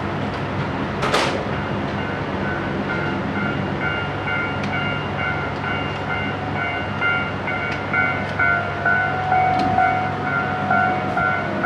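Inside a JR Hokkaido Series 711 electric train running along the line: a steady low rumble with sharp clicks from the wheels over rail joints. A short loud hiss comes about a second in, then a steady high whine sets in and stays, joined by a lower tone later on.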